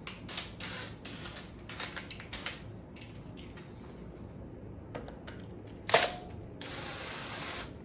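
Small metal clicks and scrapes of a T27 Torx driver loosening the front brake-cable clamp on an electric scooter. A single sharp metal clack about six seconds in is followed by about a second of rasping scrape.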